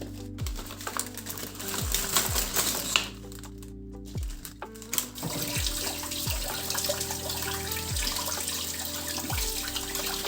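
Soft background music with falling bass notes; about halfway through, water starts running steadily from a tap.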